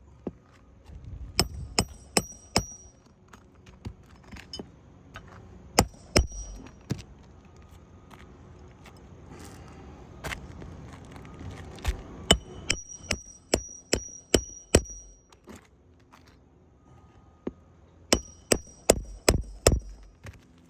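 Hammer driving roofing nails into asphalt shingles: runs of sharp, ringing metal-on-metal blows, a few to about seven in quick succession, with pauses between runs.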